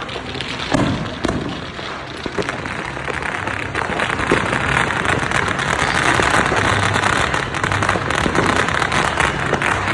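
Fireworks going off all around in a continuous dense crackle of pops and bangs, with a couple of heavier booms about a second in.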